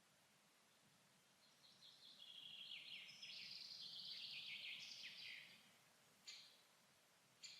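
A songbird singing one long, rapid, chattering phrase of about four seconds, followed by two short, sharp call notes near the end.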